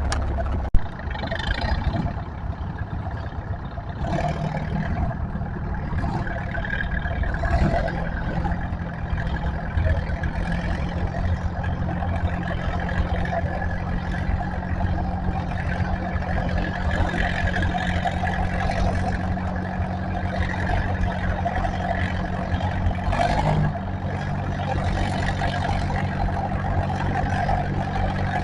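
Tractor engine running steadily, holding an even pitch. There is a single sharp click a little under a second in.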